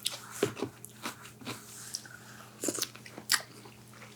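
Close-miked biting and chewing of crunchy food: irregular crisp crunches, the loudest about three seconds in.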